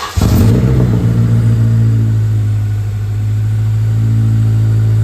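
A 2005 Acura RSX's four-cylinder engine catches from cranking just after the start, then runs steadily. This is its first run after being reinstalled, and it sounds decent.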